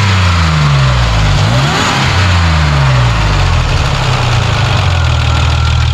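Supercharged Nissan Frontier pickup's V6 engine being blipped: the revs fall away, rise and fall once more about a second and a half in, then settle into a steady idle.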